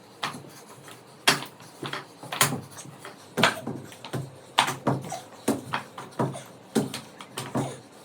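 A person doing sapate, a burpee-style floor exercise, making a run of short, sharp thuds, about one and a half a second at an uneven pace.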